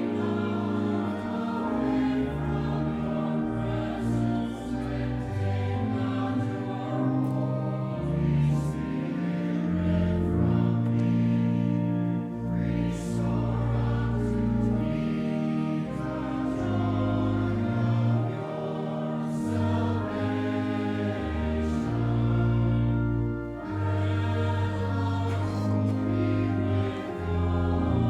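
A church hymn sung by many voices together, with a held instrumental accompaniment underneath, the chords changing every second or two.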